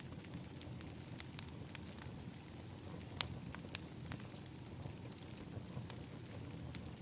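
Wood fire in an outdoor fire pit crackling, with scattered sharp pops over a low steady rumble of the flames. The loudest pop comes a little over three seconds in.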